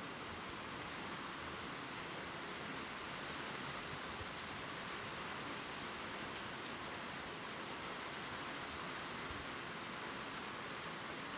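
Steady gentle rain falling on leaves, an even hiss with a few faint drop ticks now and then.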